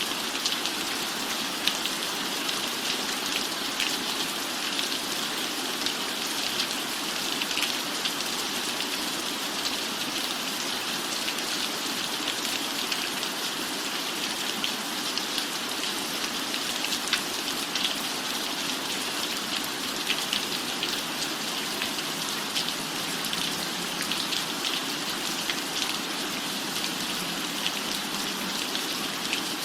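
Steady rain falling: a constant hiss dotted with many small drop ticks.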